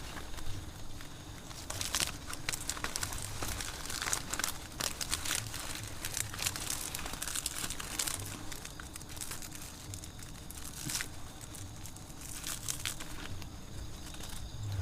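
Irregular crinkling and rustling of a covering being handled as the wild giant honeybee comb is wrapped over, with now and then a tearing or crunching sound.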